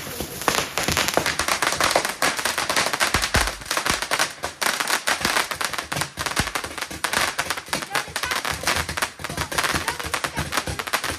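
Garden firework crackling: a dense, unbroken stream of rapid sharp pops and crackles.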